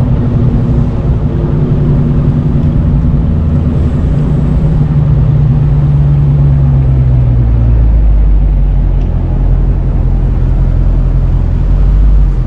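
Loud V8 muscle-car engine idling with a deep exhaust rumble, its note sagging slightly about seven seconds in.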